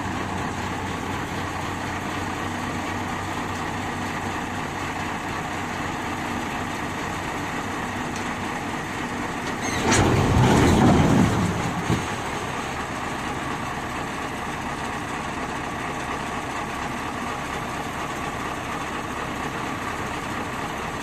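Nissan TZA 520 dump truck's diesel engine running steadily. About ten seconds in, a louder rush of noise lasts about two seconds and ends with a sharp click.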